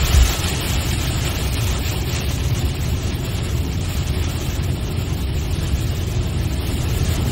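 Steady road noise inside a moving car on a wet freeway: a low rumble with tyre hiss. A short, loud low thump comes just after the start.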